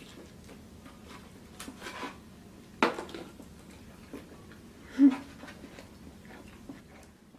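Close-miked eating sounds: chewing and mouth noises, with a sharp click about three seconds in and a louder short burst about five seconds in.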